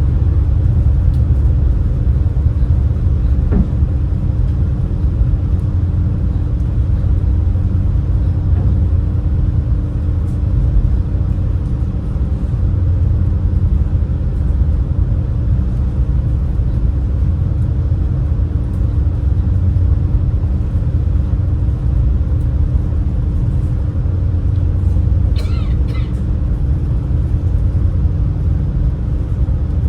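Steady low rumble of a high-speed passenger craft's engines under way, with a constant hum over the drone. A brief high squeak sounds near the end.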